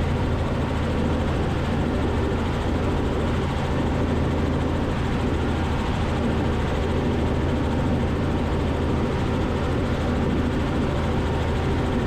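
Robinson R44 helicopter's engine and rotors running steadily in cruise flight, a constant low drone and hum heard through the cockpit intercom feed.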